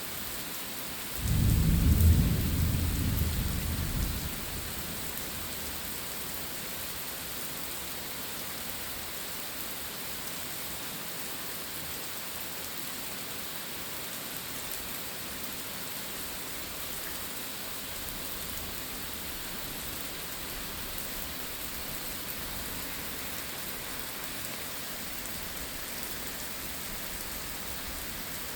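Steady rain falling, with a single loud rumble of thunder about a second in that dies away over about three seconds.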